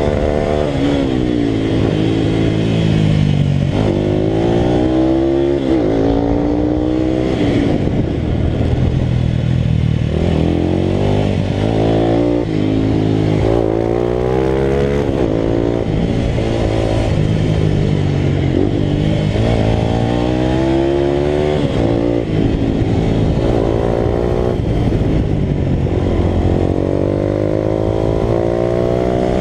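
Italika RT200 motorcycle's single-cylinder engine at race pace. Its pitch climbs repeatedly and drops back at each gear change, with deeper falls when the rider closes the throttle and then pulls hard again.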